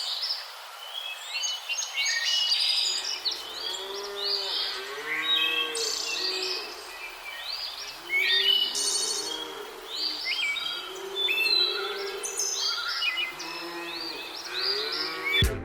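Many birds chirping and singing, with a lower, repeated call joining in from about two and a half seconds in.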